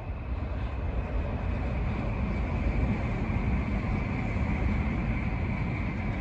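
A train passing at a distance: a steady rumbling rush that swells towards the middle and eases off near the end.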